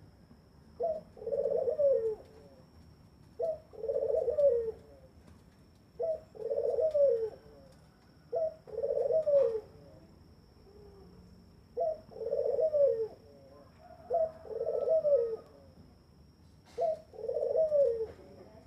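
A dove cooing over and over, about seven low call phrases, each a short note followed by a longer coo.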